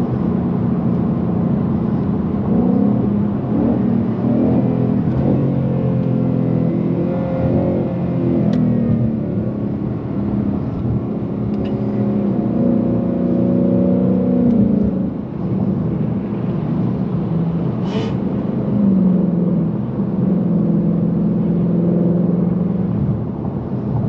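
Ford Mustang GT's V8 heard from inside the cabin while accelerating on the road, its note climbing and dropping back several times as the ten-speed automatic changes gear, over steady road rumble. A single short click comes about three-quarters of the way through.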